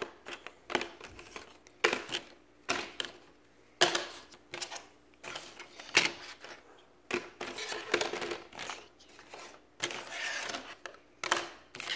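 Puzzle pieces being handled and pressed into place: irregular sharp clicks and taps, with brief rustling as pieces are shuffled.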